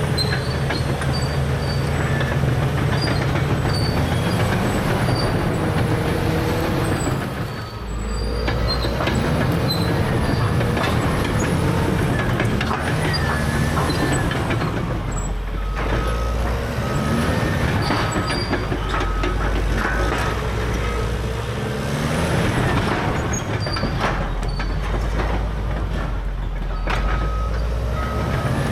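Caterpillar D6R bulldozer's C9 diesel engine working under load, with its steel tracks clanking and squealing. The engine dips briefly and later revs up again. Short repeated beeps sound near the middle and again near the end.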